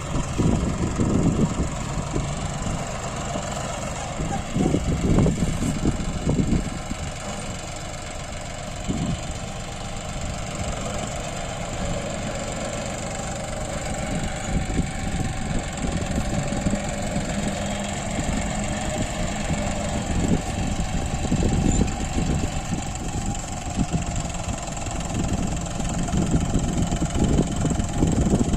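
Heavy diesel engine running at low revs, its note uneven and louder in the first few seconds and again in the last several seconds, steadier and quieter in between.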